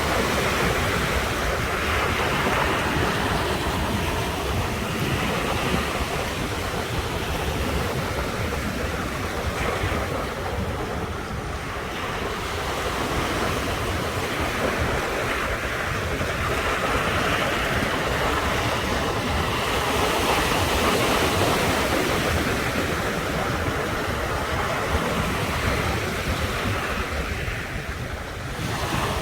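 Ocean surf breaking on the shore: a continuous wash of waves that swells and eases, dipping briefly about twelve seconds in and again near the end.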